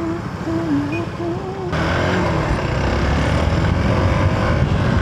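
Hero Xpulse 200 4V's single-cylinder engine running under way, with wind noise on the microphone. The engine gets louder at about two seconds in, as the bike pulls harder.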